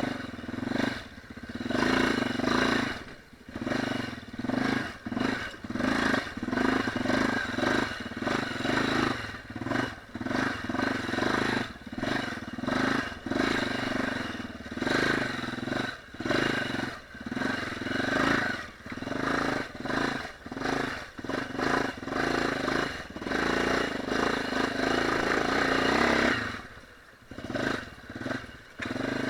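Enduro dirt bike engine revving in repeated surges as the throttle is worked on and off, about one to two blips a second, with clattering; it eases off near the end.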